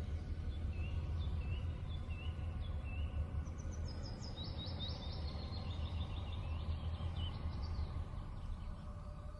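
Birds chirping over a steady low rumble of ambient noise: four short, evenly spaced chirps in the first three seconds, then a rapid high trill from about three and a half to seven seconds in.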